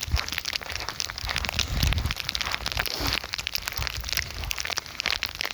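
Footsteps crunching over ice-crusted ground, with a dense, continuous crackle of ice and a low thud at each step.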